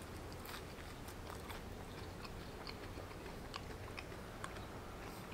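Faint close-up chewing of a fried peach mango pie, with scattered small wet mouth clicks and crunches.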